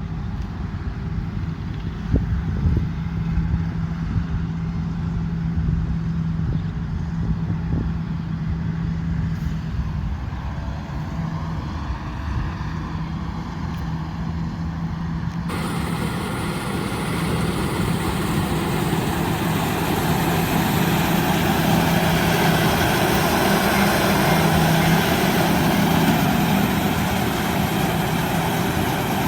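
Combine harvester's diesel engine running steadily with a constant low hum. About halfway through, the sound switches abruptly to a fuller, harsher machinery noise that grows slightly louder.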